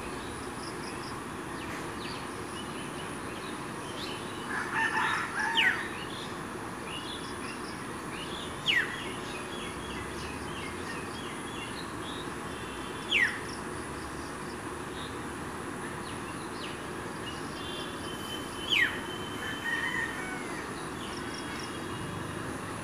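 Birds calling: a short burst of calls about five seconds in, then single sharp falling notes every few seconds, four in all, with faint chirps between, over a steady low background noise.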